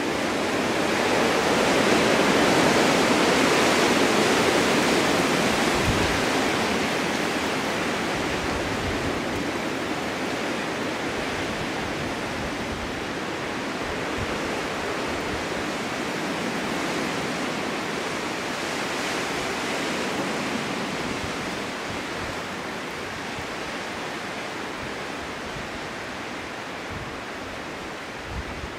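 Snowstorm wind blowing steadily: a gust swells over the first few seconds, then eases into a steadier rush.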